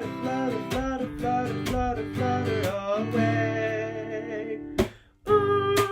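Acoustic guitar strummed in a steady rhythm. It holds one ringing chord about three seconds in, stops briefly near five seconds, and then strikes up again.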